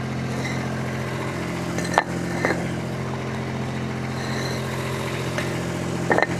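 Skid steer engine idling steadily, with a few short sharp knocks about two seconds in and again near the end.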